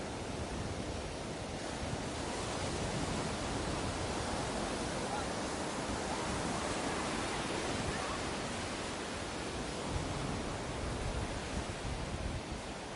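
Ocean surf washing onto a beach: a steady rush of waves that swells slightly in the middle and eases off again.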